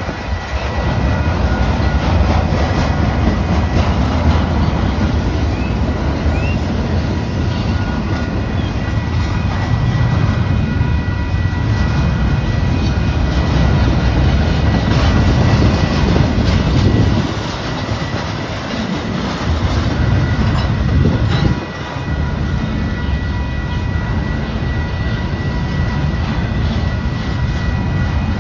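Loaded double-stack intermodal freight cars rolling past at speed, their wheels rumbling steadily on the rails with a thin, steady high tone above. The rumble eases briefly about two-thirds of the way through.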